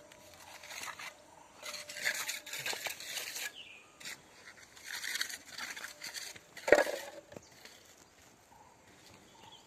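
Two spells of rough scraping noise, then one sharp knock about seven seconds in.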